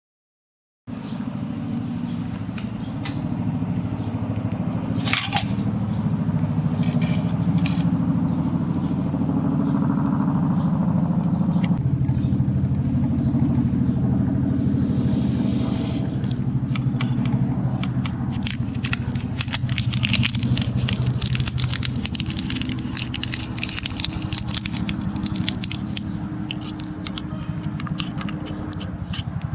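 Wood fire burning in a small folding wood stove: a steady low rumble with dense crackling and popping, the pops coming thicker in the second half.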